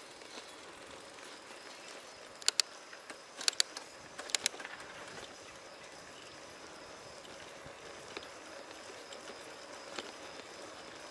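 Bicycle being ridden: a steady faint rolling hiss, with three quick pairs of sharp clacks between about two and a half and four and a half seconds in, and one more near the end.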